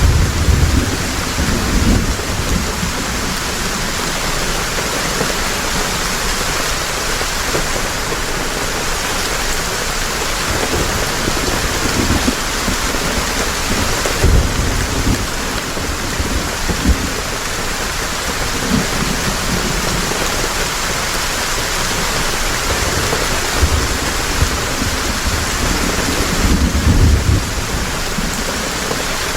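Heavy rain falling steadily in a dense, even hiss, with deep low rumbles swelling under it at the start, around the middle and again near the end.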